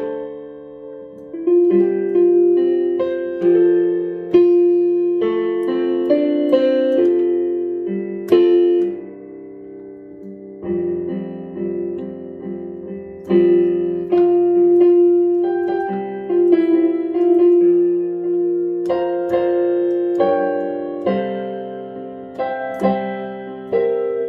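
Piano playing slow chords, each struck and left to ring out, with a softer, sparser passage about ten seconds in before the chords swell again.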